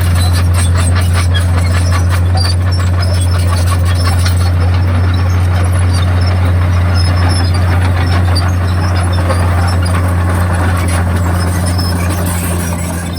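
Komatsu D51PX crawler bulldozer running, a steady low engine drone with rapid clicking and clanking from the steel tracks. It eases off a little near the end.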